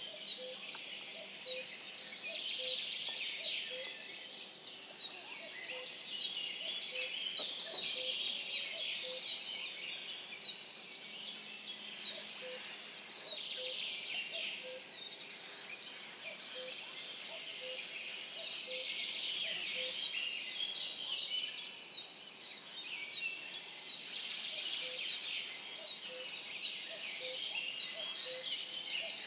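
Dawn-chorus-style mix of several songbirds singing and trilling over one another in a wetland forest, with a faint low note repeating about once a second underneath.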